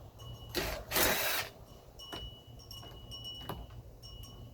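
Metal parts and hand tools being handled during a generator teardown: a loud scraping rustle about a second in, a few sharp clicks, and a faint high metallic ringing now and then.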